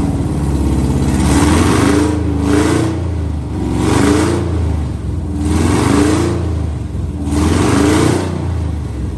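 Freshly rebuilt, cammed V8 in a Chevy Silverado running loud with no exhaust system fitted and only a base tune, surging up and settling back about every two seconds. It is the rough, untuned running that the owner says sounds bad until the exhaust and tune are done.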